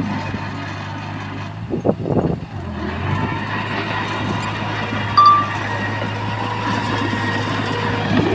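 Heavy construction machine's diesel engine running steadily, with a few short knocks about two seconds in and a brief high beep a little after five seconds.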